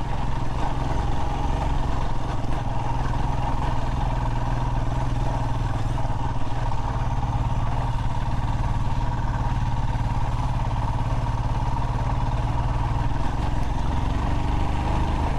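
Royal Enfield Himalayan motorcycle engine running at a steady pace while being ridden.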